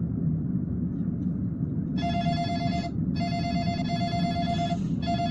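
Telephone ringing: an electronic ring tone in three steady beeps, the first about two seconds in and the longest in the middle, over a steady low rumble.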